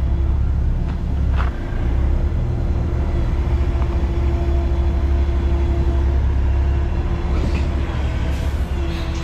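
Heavy diesel truck engine running steadily at low speed with a deep rumble and a constant hum, with a few brief clanks and short hisses of air near the end.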